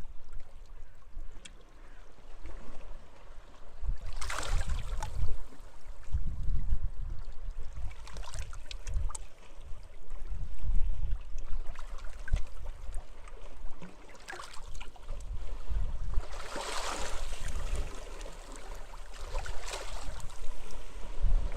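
Sea waves splashing and washing onto the shore, with the strongest surges about four seconds in and again near the end, over a constant rumble of wind gusting on the microphone.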